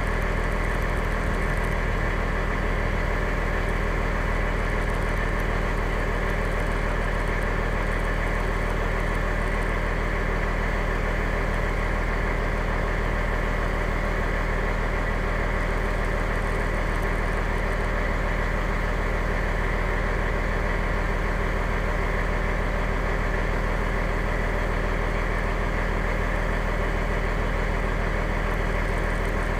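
Fire engine's diesel engine running steadily, heard from inside the cab, with an even hum that does not change.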